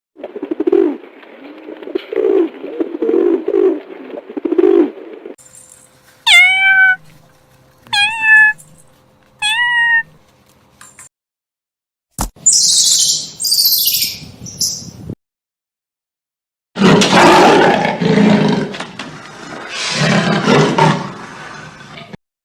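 A run of separate animal calls: a series of low pulsing calls, then three cat meows, each sweeping down sharply and then holding its pitch, then a burst of high bird chirping, and near the end a long harsh call.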